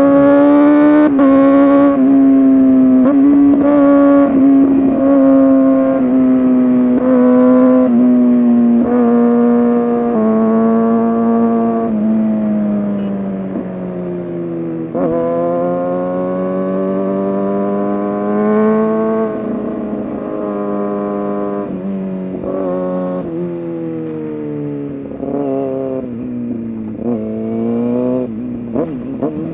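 Kawasaki ZX-6R's inline-four engine through an SC-Project exhaust, running at high revs while riding, its pitch broken by brief dips about every second at first, then sagging slowly and rising and falling again in longer sweeps.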